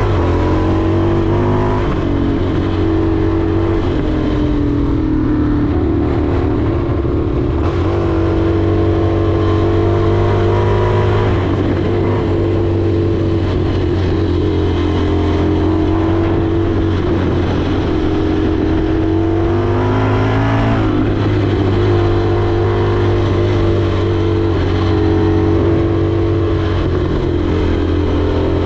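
Indian FTR 1200's V-twin engine running on the move. Its pitch dips and rises several times with throttle and gear changes, most sharply about twenty seconds in.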